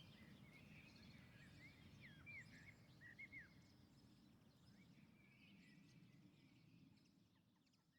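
Near silence: faint outdoor background with a few short bird chirps, about two to three and a half seconds in.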